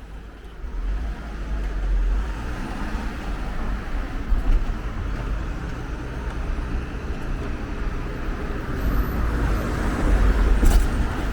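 City street traffic: motor vehicles passing close by with a low engine and tyre rumble that swells about two seconds in and again near the end.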